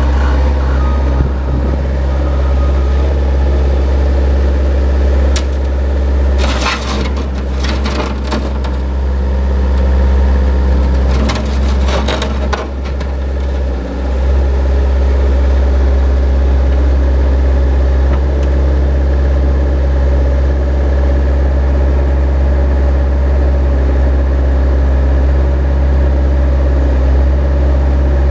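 Bobcat 753 skid steer loader's diesel engine running steadily throughout. There are two bouts of clatter, about 7 and 12 seconds in.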